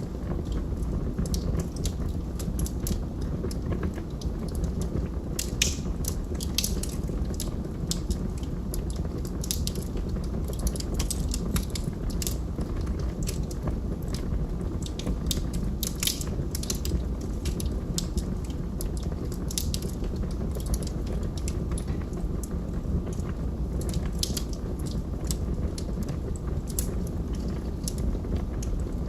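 Log fire burning with a steady low rumble, with frequent sharp irregular crackles and pops from the burning wood.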